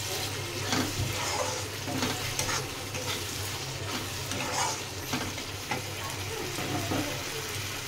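A spatula stirring and scraping a thick masala paste around a kadai in repeated strokes, the paste sizzling as it fries in its own separated oil (the kasha stage of a fish curry base). A steady low hum runs underneath.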